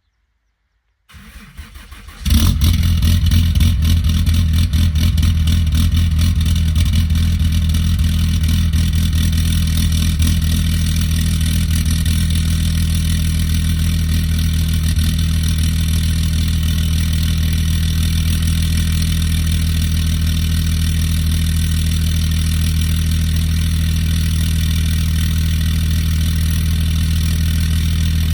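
Cummins diesel engine cold start: the starter cranks for about a second, the engine catches about two seconds in, then settles into a steady idle, a little louder for the first several seconds.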